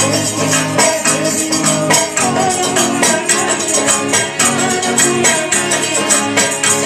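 Music: a nagara kettledrum beating quick, steady strokes, with jingling rattle-type percussion and held melodic notes underneath.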